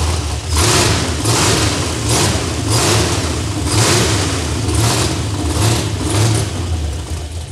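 A 6.0-liter LS V8 engine running on its first fire-up after being swapped into the truck, revved in a series of short blips about once every second over a steady idle.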